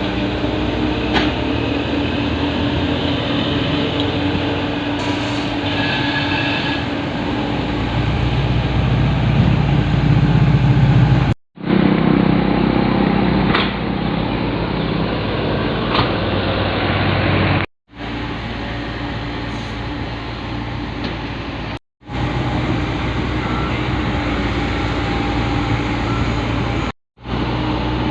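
Heavy construction machinery engine running steadily, growing louder for a few seconds before the first cut. The sound drops out abruptly four times where separate clips are joined.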